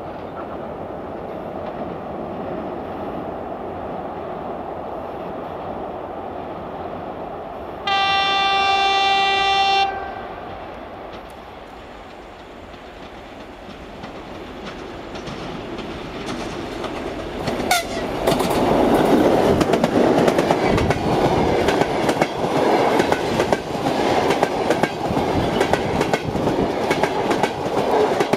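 TEP70 diesel locomotive approaching with a passenger train, its engine running steadily. About eight seconds in it sounds one steady horn blast lasting about two seconds. In the second half the locomotive and coaches pass close by, loud, with the rapid clickety-clack of wheels over rail joints.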